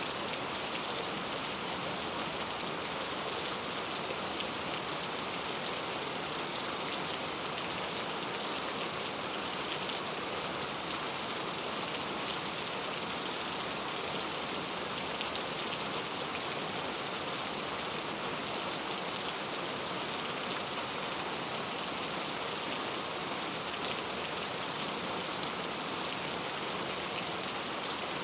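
Gentle rain falling steadily: an even hiss with scattered faint drop ticks.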